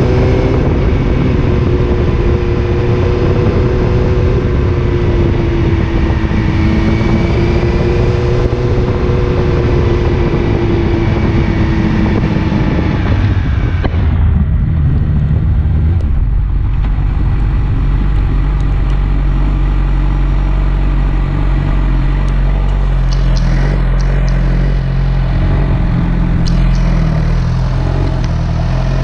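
Motorcycle engine running with its pitch rising and falling under a heavy low rumble. About fourteen seconds in it drops to a steady idle.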